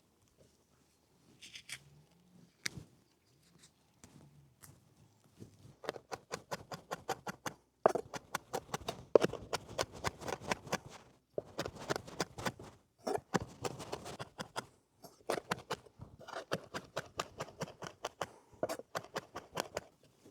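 Rapid series of sharp knocks or taps, several a second, in bursts broken by short pauses, starting about six seconds in after a few scattered clicks.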